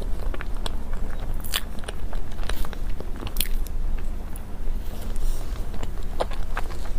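Close-miked eating of soft desserts: a person biting and chewing, with scattered short mouth clicks, a few louder than the rest, over a steady low hum.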